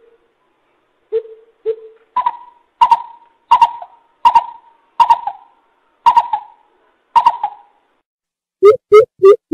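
Coucal (bubut) calling: a series of hollow hoots, two low ones followed by about eight higher hoots a little under a second apart, then three quick low hoots near the end.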